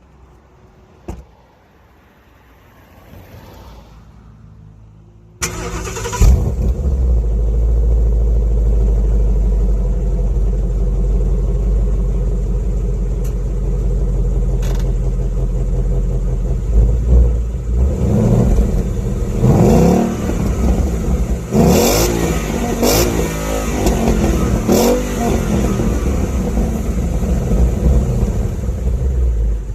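Ford Mustang GT's 5.0-litre V8 with its stock exhaust starting up about five seconds in, after a click, and settling into a steady idle. In the second half it is revved in neutral in several short blips that rise and drop back to idle.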